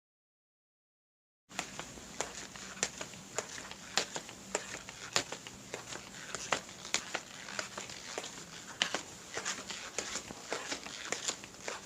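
A dense run of irregular crackling clicks over a faint hiss, starting suddenly about a second and a half in after silence.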